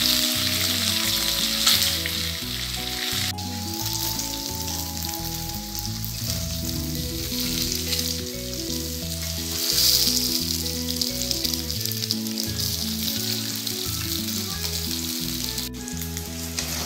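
Oil sizzling in a kadhai as boiled semolina balls are stir-fried and turned with a wooden spatula, the sizzle swelling briefly about ten seconds in. Light background music plays underneath.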